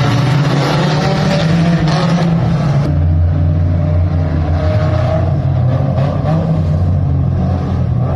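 Dirt-track mini stock race car's engine running at a steady, even pitch with no hard revving. About three seconds in the sound changes abruptly: the high hiss drops away and a lower engine note takes over.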